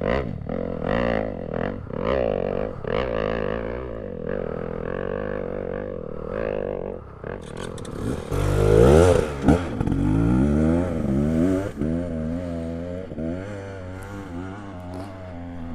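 Dirt bike engine revving hard on a hill climb, its pitch rising and falling with the throttle, loudest in a rising surge about eight seconds in.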